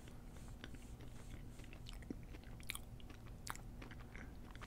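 Faint chewing of a mouthful of churro cheesecake square, with scattered small crunches from the cinnamon-sugar churro topping.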